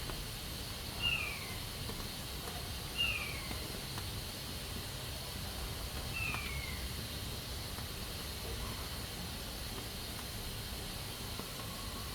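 Pressure cooker releasing steam with a steady hiss. Three short, high calls that fall in pitch sound over it, about 1, 3 and 6 seconds in.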